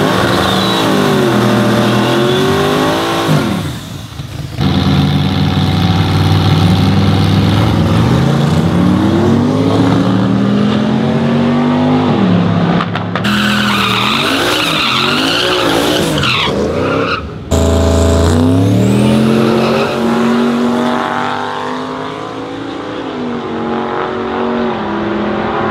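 Truck engines revving hard, the pitch climbing and falling again and again, with tyres squealing, cut together from several short clips.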